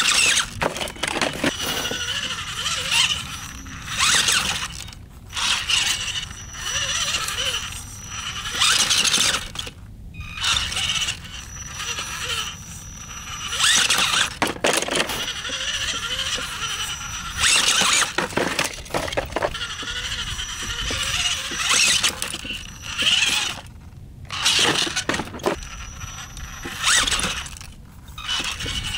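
Radio-controlled rock crawler with a brushless electric motor driven in repeated short bursts every few seconds: motor whine and tyres scrabbling and scraping on rock as it climbs.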